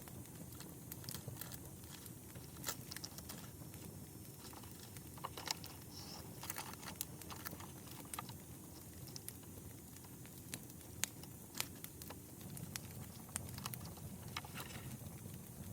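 Campfire crackling: irregular sharp pops and snaps, a few louder than the rest, over a low steady rumble of the burning fire.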